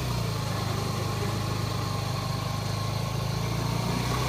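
A motor vehicle engine running at a steady speed with a low, even hum, driving a stalled shaft-drive motorcycle's wheel tire-to-tire to spin its engine over.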